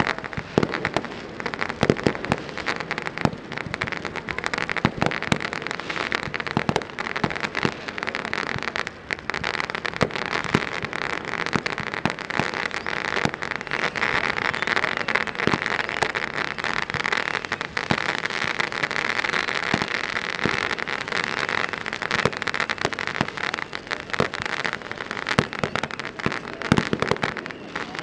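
Fireworks going off continuously: dense crackling with many sharp bangs, the crackle thickest around the middle.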